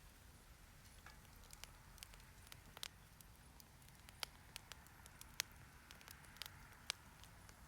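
Wood fire crackling: scattered, irregular sharp pops and snaps, a few louder than the rest, over a faint low hum.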